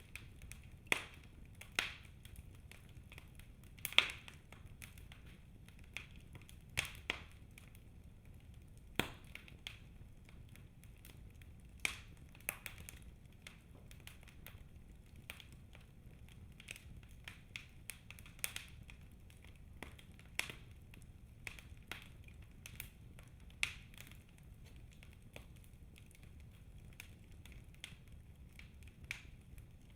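Wood fire crackling in a fireplace, with irregular sharp snaps and pops, the loudest about four seconds in, over a faint steady low rumble of the flames.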